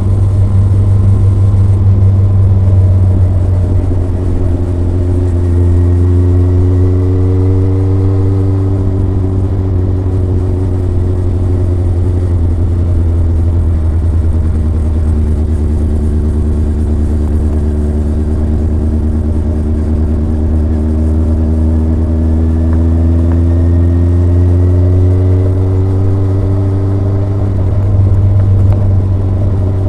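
Kawasaki ZRX inline-four engine and exhaust under way while riding. The revs sag gradually over the first half, then climb slowly again before easing off near the end, over a steady low drone.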